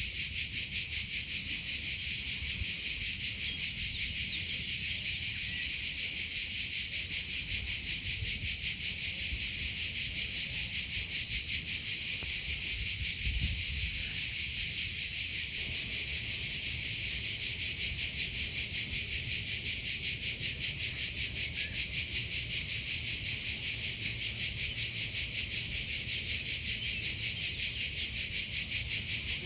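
Cricket chirping without pause: a fast, even train of high pulses that never changes.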